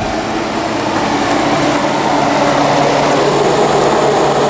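Vintage room air conditioner running: its fan blows a steady rushing noise that grows gradually louder, with a low steady hum coming in about a second and a half in.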